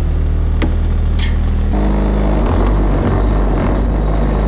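Diesel truck engine running steadily; a little under two seconds in, the sound turns rougher and noisier over the engine hum.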